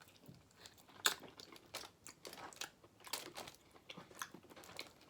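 Close-miked chewing and biting of food: irregular crisp crunches and wet mouth clicks, the sharpest about a second in.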